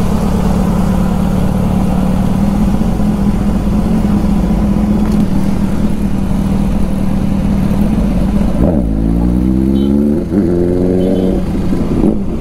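KTM Duke 390's single-cylinder engine running steadily at low road speed, then about two-thirds in the revs drop and climb twice as the throttle is opened.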